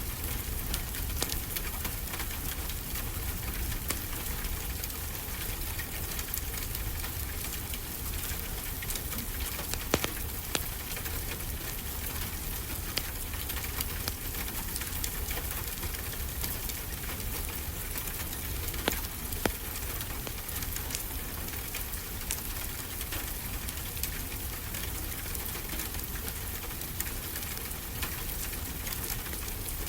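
Steady rain with a wood fire crackling, scattered sharp pops standing out. The loudest pop comes about ten seconds in, and two more fall close together a little later.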